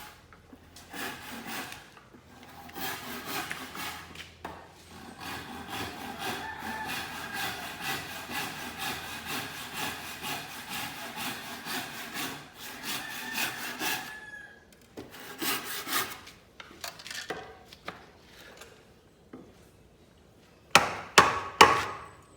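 A hand saw cutting a wooden plank with quick back-and-forth strokes, the blade ringing faintly; the sawing stops, a few more strokes follow, and near the end come several loud knocks.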